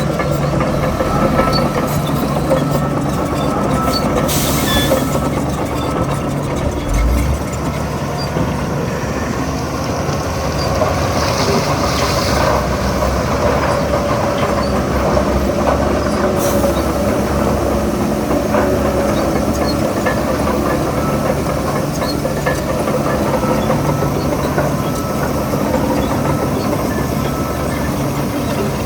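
Shantui DH17 C3 crawler bulldozer working, its diesel engine running steadily with the clatter of its steel tracks.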